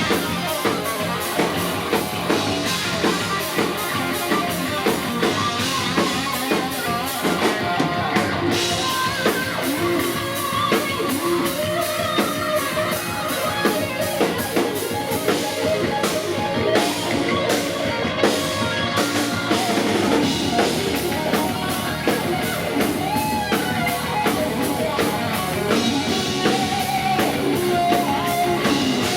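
Heavy metal band playing live: a drum kit keeps a steady driving beat under distorted electric guitars.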